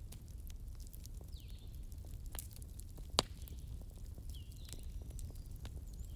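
Wood fire crackling over a low steady rumble, with scattered small pops and one sharp, loud pop about three seconds in. A bird chirps briefly a couple of times in the background.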